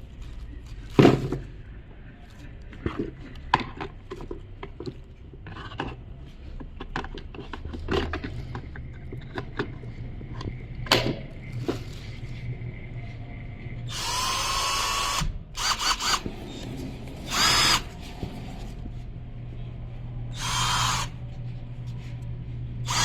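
Teeno cordless drill run in short bursts: after a stretch of clicks and knocks from handling it, the motor runs for about a second and a half, then gives several shorter spins, each starting and stopping abruptly.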